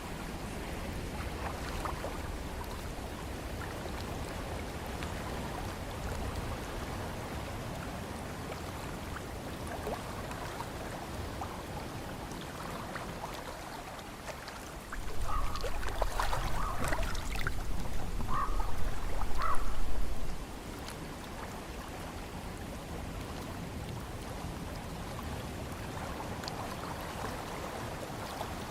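Seaside wind and water ambience: a steady rushing noise with a low rumble. About halfway through it swells into a louder rush for around five seconds, with a few short high blips, then drops back suddenly.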